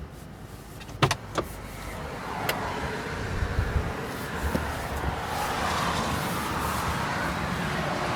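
A few sharp clicks about a second in, then a steady rushing blower noise that builds and holds: a 2019 Mercedes G500's auxiliary heater blowing hot air into the cabin with the engine off.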